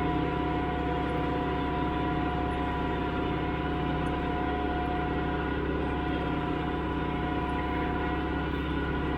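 Farm tractor engine running steadily under way, with a constant mechanical whine over the engine's low drone.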